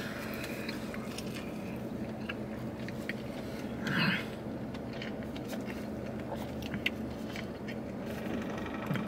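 A man chewing a mouthful of steakburger close to the microphone, with small wet mouth clicks, over a steady low hum in the car's cabin. A short breathy noise comes about four seconds in.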